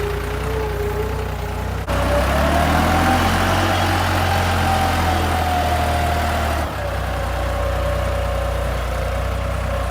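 Tractor engine running, with a steady low rumble and a whine above it. It gets louder and higher-pitched about two seconds in, then eases back a little near seven seconds.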